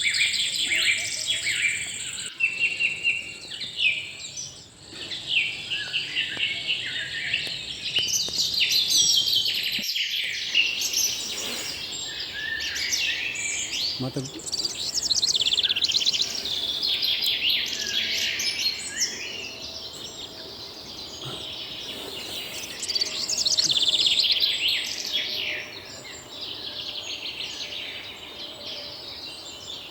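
Many wild birds chirping and trilling at once, with a steady high-pitched insect whine that comes and goes.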